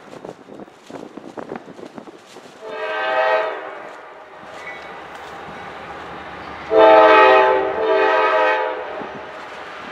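Diesel locomotive air horn sounding three blasts, a shorter one about three seconds in and two louder ones back to back near the end, over the low drone of the locomotive's engine. Gusts of wind buffet the microphone in the first couple of seconds.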